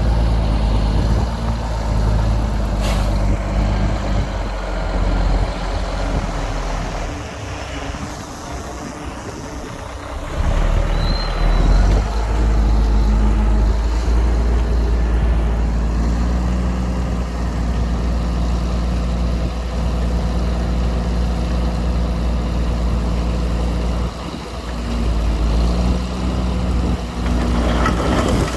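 Diesel engines of heavy earthmoving machinery running under load, steady and low. The engine note eases off for a few seconds about a quarter of the way in, then picks up louder from around ten seconds in.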